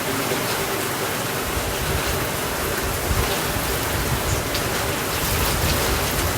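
Steady heavy rainfall, a dense even hiss with scattered drop ticks. A low rumble comes in underneath about a second and a half in.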